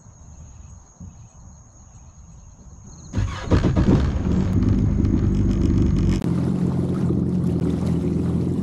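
Insects trilling faintly at first. About three seconds in, the Yamaha FX Cruiser HO WaveRunner's engine comes in suddenly, loud and running steadily.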